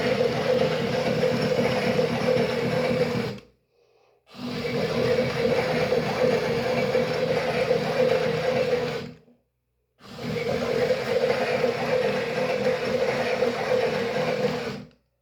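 Toy washing machine's small motor turning the drum with a steady whirring hum, running in stretches of about five seconds that stop abruptly and restart after a short pause, three times.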